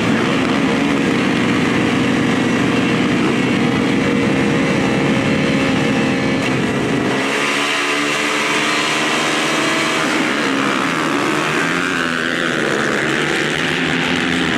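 Motocross bike engines running hard and revving, the pitch rising and falling with the throttle; the sound changes in character about halfway through.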